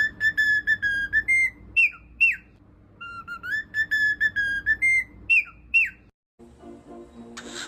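Cockatiel whistling a short tune of clear held and gliding notes, the same phrase twice over. About six seconds in it breaks off, and a short hiss follows near the end.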